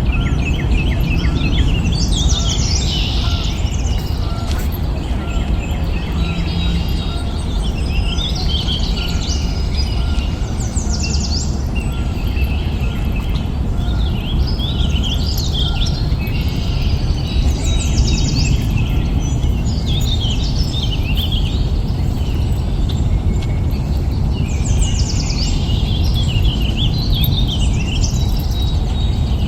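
Birds singing in bursts of high, quickly repeated notes that come back every several seconds, over a steady low rumble.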